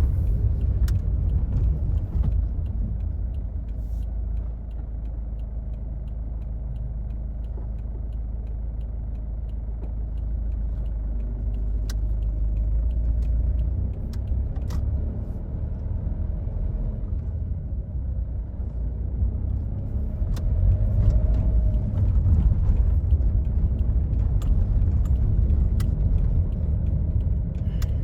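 A 2005 Toyota Yaris diesel driving, heard from inside the cabin: a steady low rumble of engine and road noise with a few faint clicks, getting louder about two-thirds of the way in.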